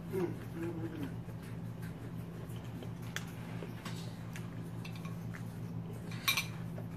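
Mouth-close chewing of a cracker snack with small clicks and taps at a plate, over a steady low hum. A brief hummed "mm" comes right at the start, and a louder cluster of clicks about six seconds in.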